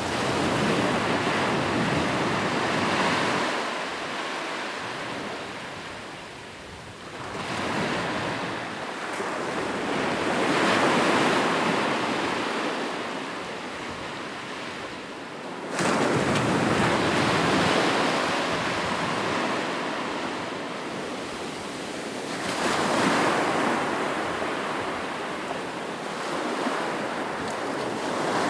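Ocean waves breaking on a shore, each wave a rush of surf that swells and then drains away. About five waves come in, one of them striking suddenly a little past the halfway point.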